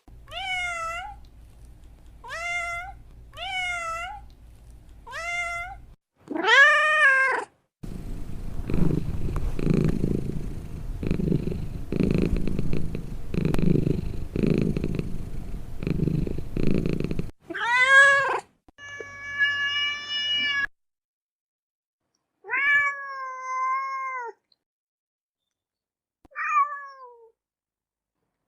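Domestic cat meowing, a run of short meows and then a louder one. For about ten seconds in the middle comes a pulsing purr. After it the meows return, one of them drawn out.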